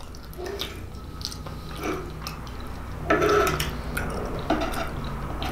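Someone chewing lasagna with the mouth open: wet smacking and clicking mouth sounds, with small clicks of a knife and fork cutting food on a wooden board.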